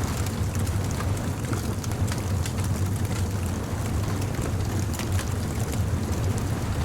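Bonfire crackling with scattered sharp pops over a steady low rumble of beach surf and wind.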